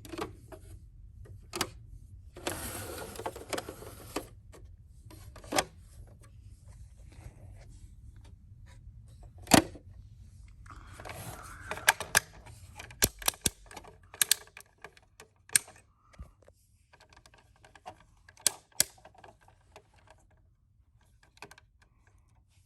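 Plastic toy tow truck being handled and played with: scattered clicks and knocks, with two short stretches of scraping or rustling, and the loudest knock about ten seconds in.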